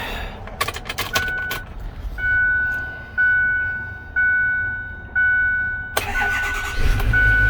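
A few clicks, then a dashboard warning chime pinging about once a second while the key is on. About six seconds in, the starter cranks and the 2008 Ford bucket truck's engine fires and settles into a steady idle on a cold start, with the chime still sounding.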